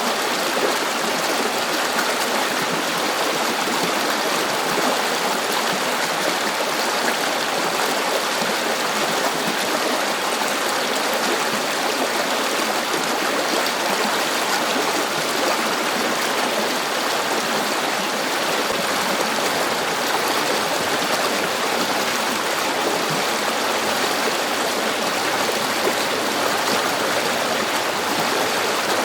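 A river flowing over rocks: a steady, even rush of water that does not change.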